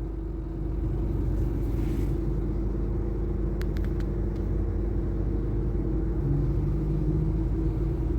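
Car engine running, a steady low rumble with a constant hum, with a couple of faint clicks about three and a half seconds in.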